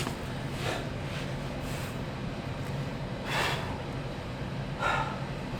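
A man breathing hard during sit-ups, a sharp breath about every one and a half seconds, over a steady low hum.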